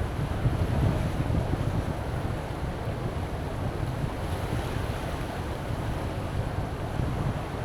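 Wind buffeting the microphone with a heavy low rumble, over the steady wash of surf on the beach.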